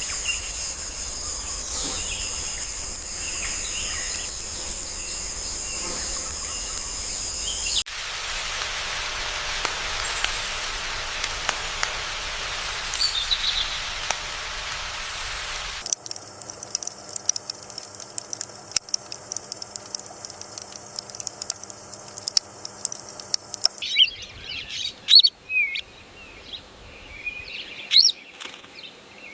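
Nature ambience cut together in blocks of about eight seconds: a steady high-pitched buzz, then an even hiss, then a quieter stretch, then scattered short bird chirps near the end.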